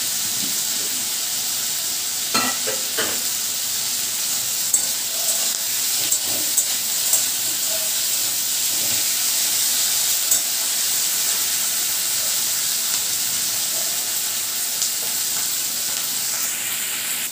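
Diced onion and tomato with whole spices sizzling in hot oil in a metal kadai, stirred with a metal spatula that scrapes and clinks against the pan a few times in the first half.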